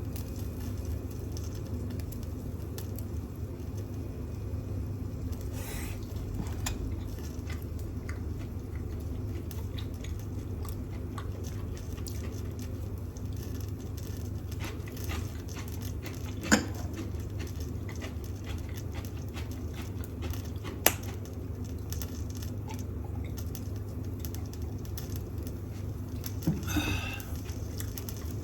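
Steady hum of a kitchen range hood fan, with faint scattered crackling from pork shoulder grilling on an electric shichirin. A few sharp clicks or knocks come about midway and near the end.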